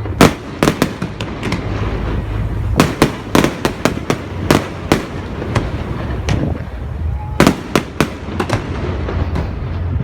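Fireworks display going off: sharp bangs in quick clusters of several shots every second or two, over a steady low rumble.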